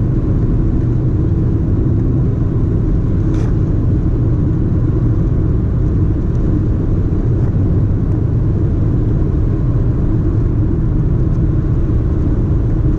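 A car driving, heard as a steady low road rumble.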